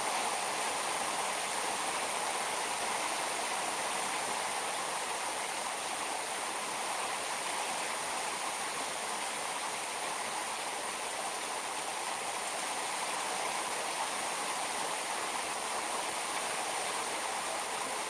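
Heavy rain pouring down steadily onto a shade net and a parked car, an even hiss that does not let up.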